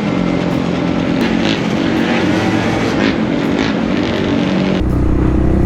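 Small motorcycle engine running steadily under way, with a loud rush of wind on the microphone; the wind rush drops off near the end, leaving the engine's steadier low drone.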